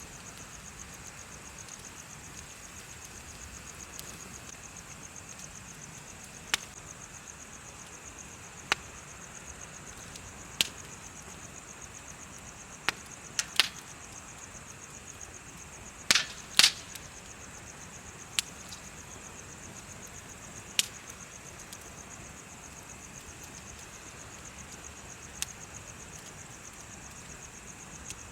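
Bonfire crackling with scattered sharp pops, the loudest few coming close together just past the middle, over a steady high trill of insects chirping.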